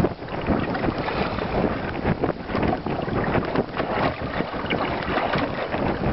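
Wind buffeting the microphone on a small fishing boat, with waves slapping irregularly against the hull in choppy water.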